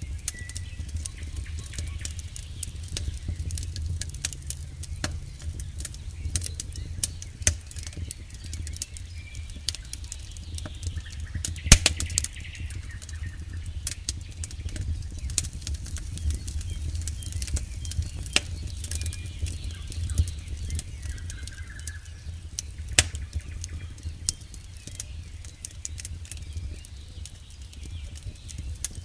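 Campfire burning, with irregular crackles and pops from the wood over a steady low rumble; one pop about midway is sharper than the rest.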